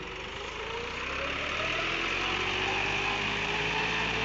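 Tractor's diesel engine running under load, its pitch and loudness rising over the first couple of seconds and then holding, as the stuck tractor works to get free.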